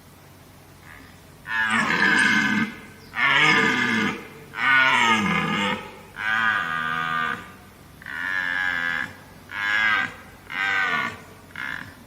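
An animal calling eight times in a row, each call a pitched cry about a second long or shorter, coming every one to two seconds, with the last few calls shorter.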